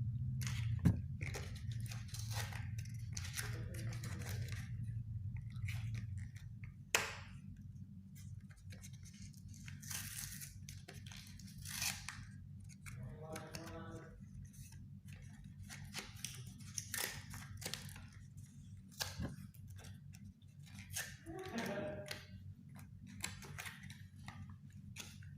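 Empty cardboard cigarette pack being handled and cut by hand: irregular crinkles, scrapes and short snipping and tearing sounds.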